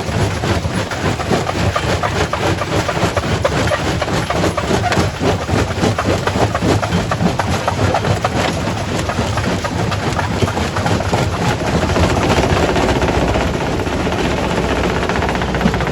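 Quarry primary rock crusher running, stone knocking and clattering rapidly and irregularly over a steady low machine drone. About twelve seconds in the knocking thins out into a smoother, steadier noise.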